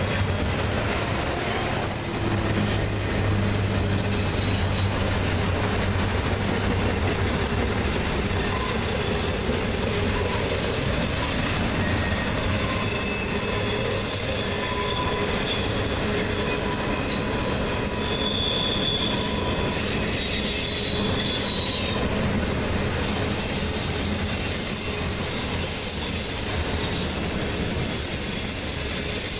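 Freight train cars rolling steadily past, with intermittent thin, high wheel squeal over the rumble of the wheels.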